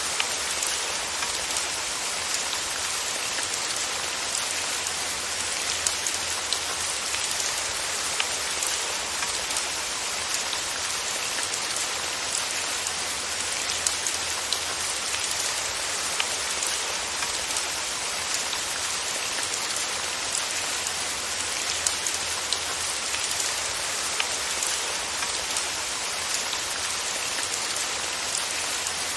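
Steady rain falling, an even hiss with scattered patters of individual drops landing on a surface.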